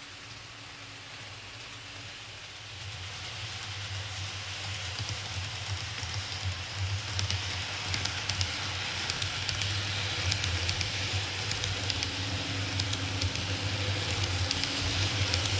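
N-gauge KATO E353 series model train running along layout track: a steady low motor hum with fine ticking from the wheels on the rails, growing louder from about three seconds in.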